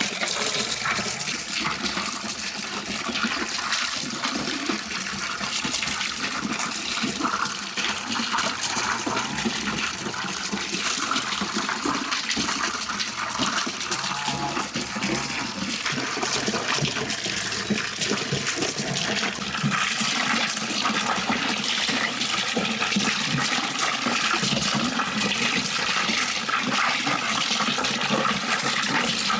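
Steady rush of running water, a little louder about two-thirds of the way through.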